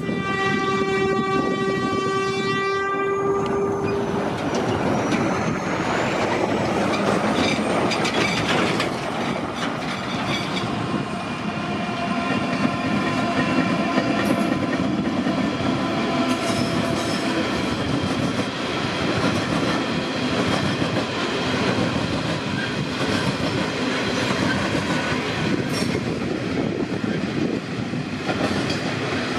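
A long coal train passes close by. Its locomotive horn sounds one steady chord for about the first four seconds, then the rumble and clickety-clack of the wagons rolling over the track carry on, with a steady whine partway through.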